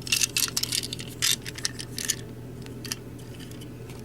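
Small hard clicks and rattles of plastic toy trains being handled and set down, densest in the first two seconds and sparser after, over a steady low hum.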